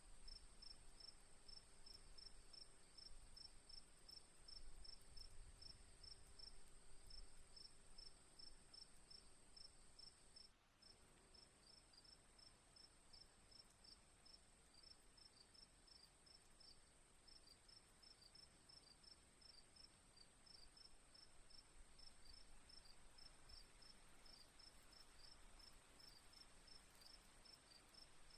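Faint crickets chirping: a steady high trill under a regular pulse of chirps, about three a second, with a brief break about ten seconds in.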